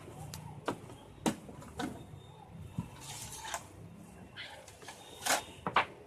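Scattered clicks, knocks and short scrapes of hands handling the plastic back cover of an LED TV, already unscrewed and being taken off; the loudest knocks come near the end.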